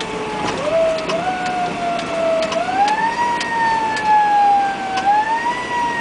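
Fire truck siren wailing, its pitch sweeping up and then sliding slowly back down, several times over, with scattered sharp clicks.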